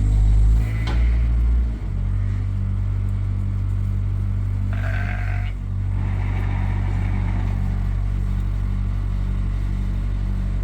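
Skid steer engine running steadily, its note dropping about two seconds in as it eases off, with a short high call about five seconds in.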